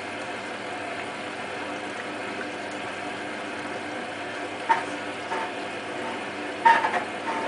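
Hotpoint WT960 washing machine running with a steady hum, then several clunks and rattles from the drum in the last few seconds.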